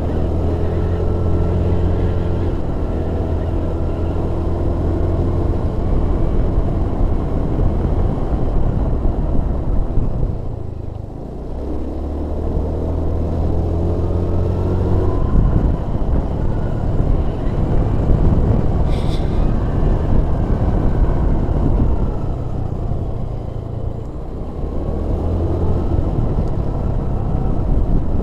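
A vehicle's engine running under way on the road. Its note drops away twice, about ten seconds in and again near the end, then picks up again.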